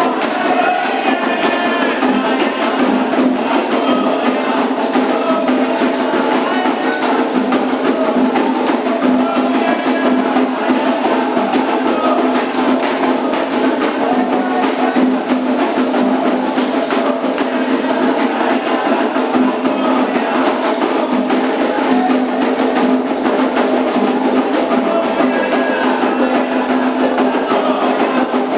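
Candomblé ritual music: atabaque hand drums playing a fast, steady rhythm, with voices singing over them.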